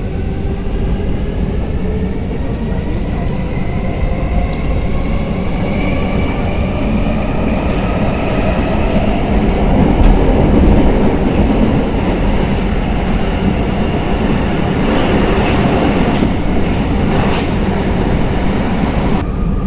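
Modern Stockholm metro train accelerating: its electric traction motors give a whine of several tones climbing in pitch over the first ten seconds or so, over a steady rumble of wheels on rails. Later the whine fades into steady running noise with a few clicks.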